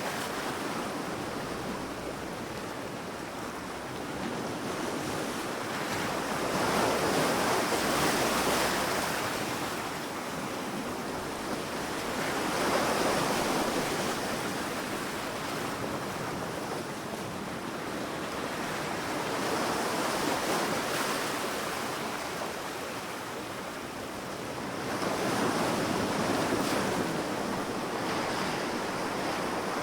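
Sea waves breaking and washing up onto a sandy beach, a steady surf with swells rising and falling about every five or six seconds.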